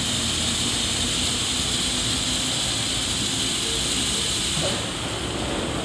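Ryko Soft Gloss Maxx 5 car wash spraying water over a car: a steady hiss of spray over a machinery hum. The high hiss drops off near the end.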